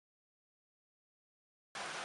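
Dead silence, then heavy rain starts abruptly and steadily just before the end, as a hard cut.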